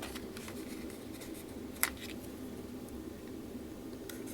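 Quiet handling of small diamond-painting drill containers over a steady low hum, with faint ticks and rustles and one sharp click just under two seconds in.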